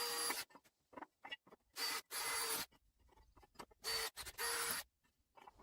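A small power-tool motor run in four short bursts, each starting and stopping abruptly with a steady whir, with light clicks and knocks between them.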